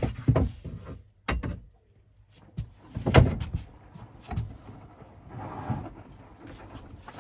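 Knocks and thumps as a washing machine is shifted back into place, the loudest thump about three seconds in, with a short scraping stretch later on.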